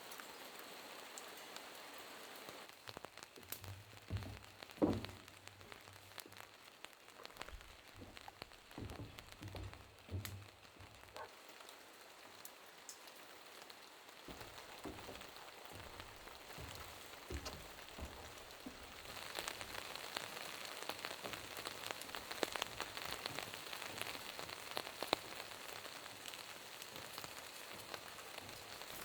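Rain falling and pattering in fine, irregular drop ticks, with a few soft low thumps in the first half. The rain grows louder and denser about two-thirds of the way in.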